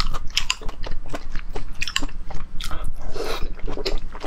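Close-miked mouth sounds of chewing braised pork intestine: irregular wet clicks and smacks of the jaw and lips, with a longer rushing sound about three seconds in.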